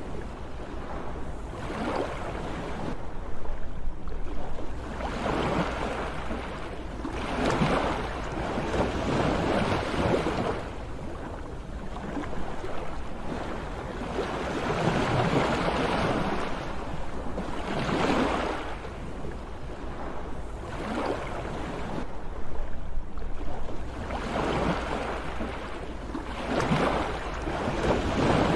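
Sea waves breaking and washing in, the surf swelling and falling back every few seconds over a steady low rumble.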